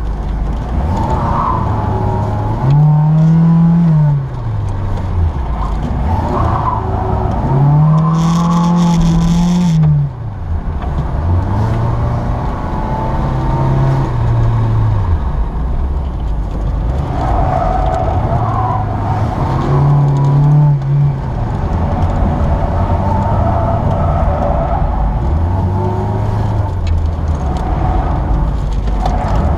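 A Saturn SL2's 1.9-litre four-cylinder engine, heard from inside the cabin, revving up and falling back about six times as the car accelerates and slows between the cones of an autocross course. The tyres squeal at times in the turns.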